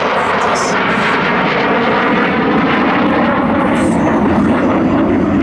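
F-16 Fighting Falcon's jet engine running loud and steady, a dense roar that drowns out the public-address announcer.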